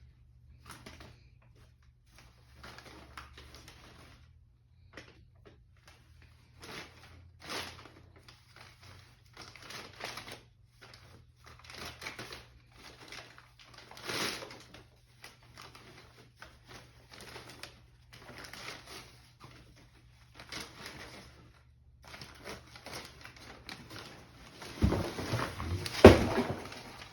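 Paper crinkling and rustling in short bursts, about one a second, as a young puppy paws and noses through it. Louder rustling with a few heavy knocks comes near the end.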